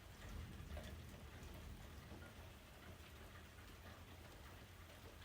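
Faint steady rain with scattered small drop ticks.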